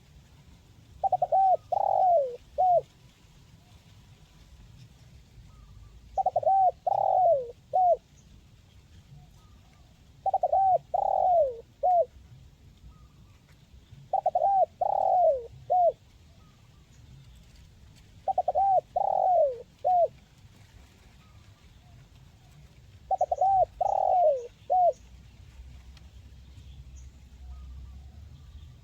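Spotted dove (tekukur) cooing in the crisp 'mersik' voice: six phrases about four seconds apart. Each phrase is a quick run of short coos, then a longer falling coo, then one short closing note.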